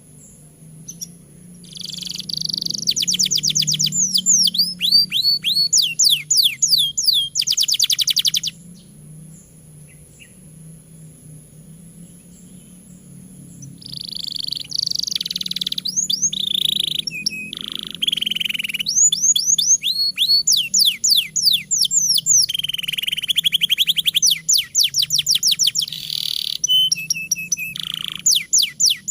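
Domestic canary singing a long, vigorous song of rapid trills: fast runs of short, high, downward-sweeping notes mixed with a few held notes. It sings in two bouts with a pause of several seconds between them.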